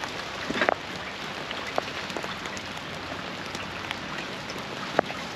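Steady rain falling on moored sailboats and a wooden pontoon. There is a brief rustle under a second in, and a couple of sharp clicks later.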